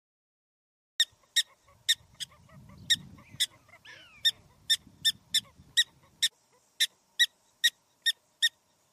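A bird calling in a long series of short, sharp, high-pitched calls, about two to three a second, starting a second in with a brief break partway through.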